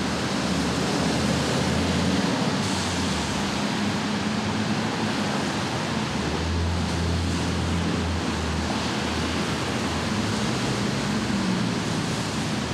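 Steady hiss of rain and traffic on wet streets, with a low engine rumble that swells about six to eight seconds in as a vehicle goes by.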